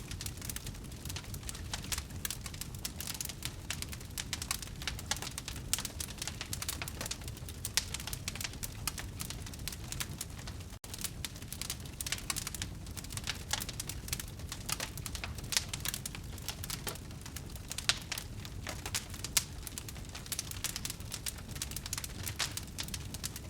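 Wood fire burning, with dense irregular crackles and pops of burning wood over a low steady rumble of the flames. The sound drops out for an instant about eleven seconds in.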